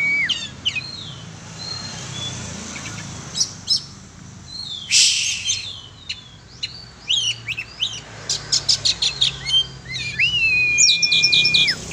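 Oriental magpie-robin (kacer) singing a varied song of whistled notes and chirps. A fast run of short repeated notes comes about two-thirds of the way in, followed by a long, level whistle near the end. A brief rushing noise comes about five seconds in.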